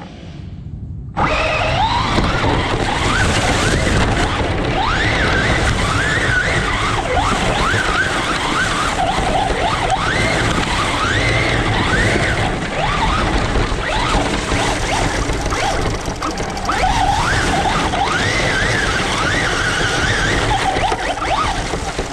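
Electric motor of a radio-controlled truck whining as it is throttled up again and again, each burst a rising whine, over loud rumbling noise. The sound starts suddenly about a second in.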